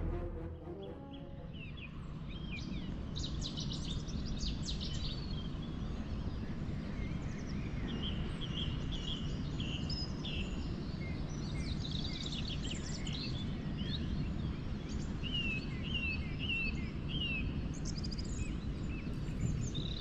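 Several songbirds singing and chirping, with short whistled notes and trills and a run of repeated falling notes about three-quarters of the way through, over a steady low background rumble.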